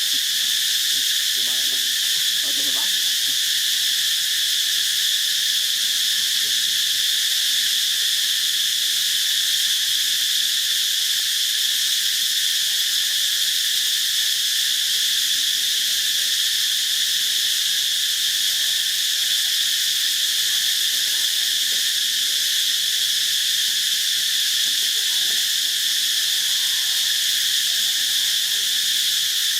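Steady, high-pitched insect chorus, an even drone that holds at one level without breaks.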